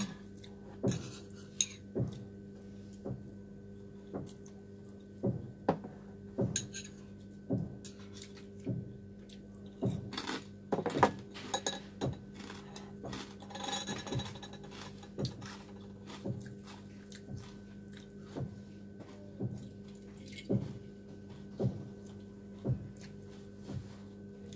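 Metal chopsticks clicking and scraping against a small bowl of noodles, short taps about every second, with chewing in between, over a steady low hum.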